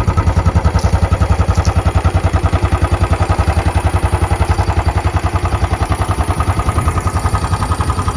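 Royal Enfield Bullet Trials 500's air-cooled 499 cc single-cylinder engine idling, a steady even beat of about eight to ten firing pulses a second.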